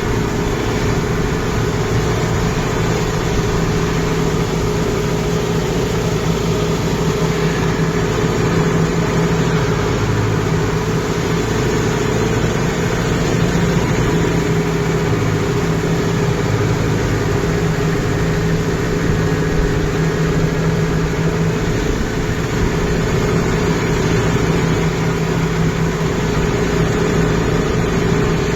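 Kubota MU5502 tractor's four-cylinder diesel engine running steadily under load while plowing a paddy field, with an even hum that does not change.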